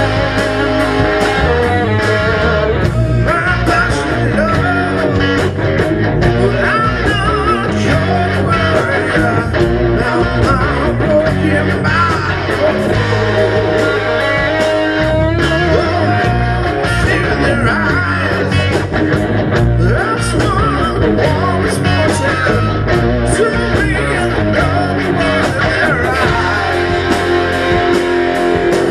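Rock band playing live: electric guitar, bass and drums with a voice singing, the drums keeping a steady beat throughout.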